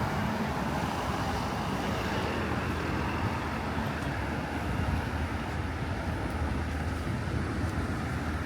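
Steady road traffic noise from a busy city road: a continuous wash of car and vehicle engine and tyre noise.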